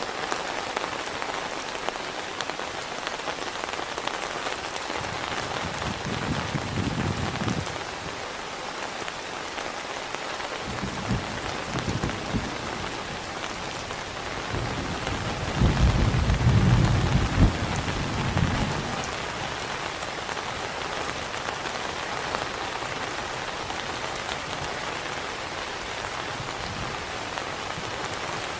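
Heavy rain falling steadily, with low rolls of thunder swelling up three times, the longest and loudest a little past the middle.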